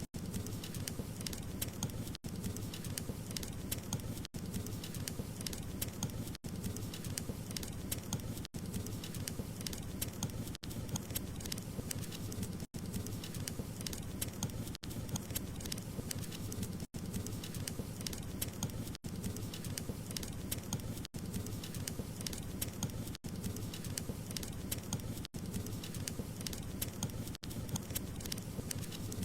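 Wood fire crackling steadily, dense small pops and snaps over a low rumble, with a brief dropout about every two seconds.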